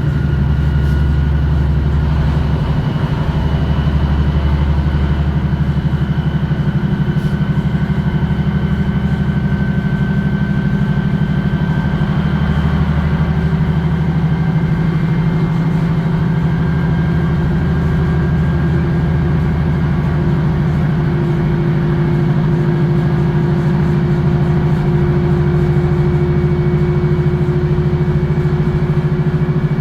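Diesel train engine running steadily under way, heard from inside the carriage: a constant low drone with engine tones that slowly shift in pitch.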